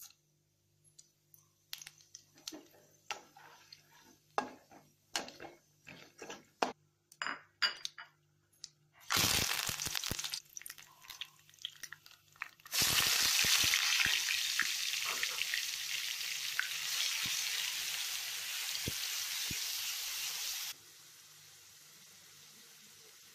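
Whole spices crackling in hot oil in a steel kadai, with scattered sharp pops. About nine seconds in there is a short burst of loud sizzling. About thirteen seconds in, ground onion paste poured into the oil sizzles loudly and steadily, then cuts off abruptly near the end.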